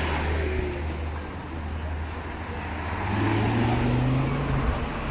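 Car engine running at low revs, then accelerating about three seconds in, its note rising steadily for a second and a half.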